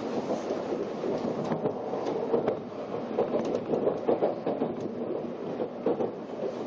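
Cabin noise of an N700-series Shinkansen car running on the line, heard from inside at a window seat: a steady rumble with irregular small knocks and clatters.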